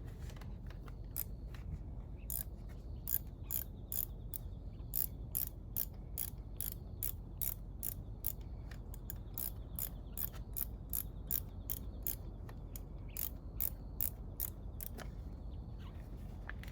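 Socket ratchet wrench clicking in a fast, even run of about three clicks a second, as fasteners are backed off during engine disassembly; the clicking stops about fifteen seconds in.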